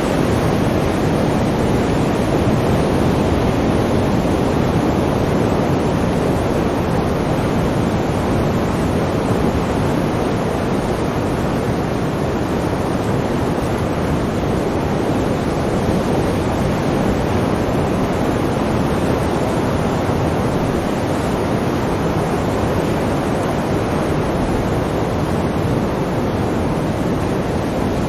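Sea surf: a steady, continuous rush of waves, even in level, with no single wave standing out.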